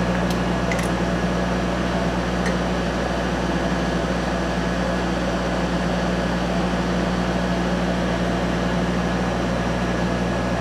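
Steady, even mechanical hum with a low drone, plus a few faint clicks in the first couple of seconds.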